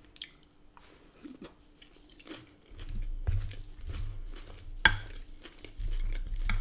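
Close-up chewing of a mouthful of rice and salad, with small wet mouth clicks. From about the middle, a wooden spoon stirs and scrapes through the food in a glass dish, with one sharp knock of the spoon against the dish near the end.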